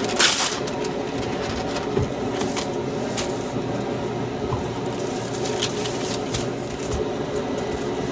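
Kitchen food preparation: a steady appliance hum with scattered short clicks and clinks of utensils and containers.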